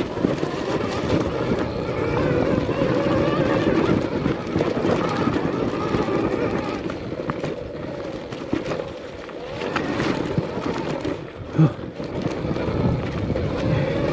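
Arctic Leopard XE Pro electric dirt bike being ridden on a dirt trail: wind rushing over the microphone and tyre noise, with a faint electric motor whine that rises and falls with the throttle. A short sharp knock comes about eleven and a half seconds in.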